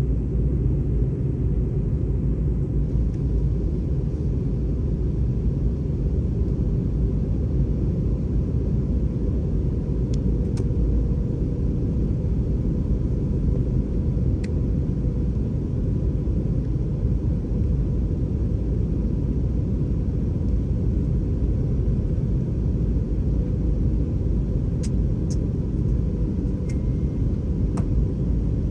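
Steady low cabin rumble inside an Airbus A320 from its engines and airflow, with a faint steady hum and a few faint clicks, most of them near the end.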